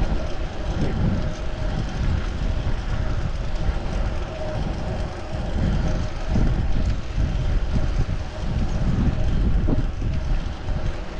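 Wind buffeting a chest-mounted action camera's microphone while riding a fixed-gear bicycle, with road and tyre noise underneath and a faint steady hum.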